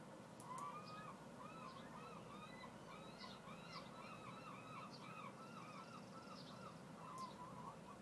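A faint bird calling: a long run of repeated rising-and-falling notes, about two or three a second, starting about half a second in, over a low steady hum.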